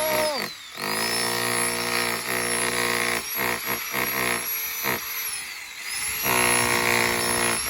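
Electric jackhammer hammering in steady runs, with a high motor whine. It slows and winds down with a falling whine about five seconds in, then starts hammering again about a second later.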